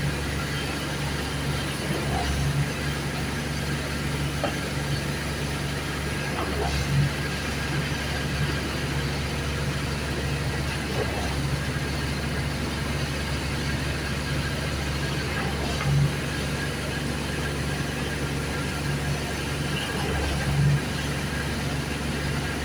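Concrete pump truck's diesel engine running steadily, with a few brief louder knocks.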